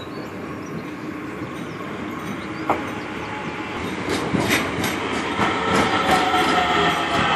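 DART electric train running along the platform, with repeated wheel clicks over the rails and a whine that slowly falls in pitch, growing louder toward the end. A single sharp click comes a little before the middle.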